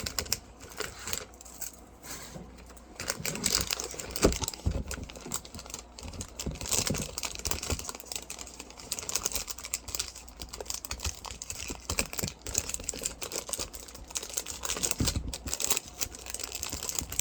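Plastic bag crinkling and rustling, with many small irregular clicks and crackles as a tissue case in it is handled.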